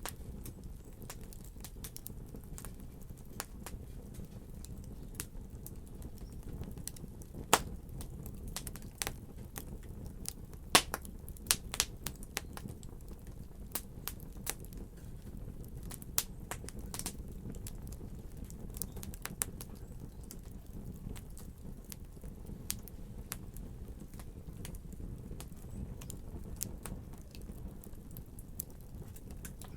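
Wood fire crackling in a fireplace: a steady low rumble of burning with irregular sharp pops and snaps, the loudest a few seconds in and again about eleven seconds in.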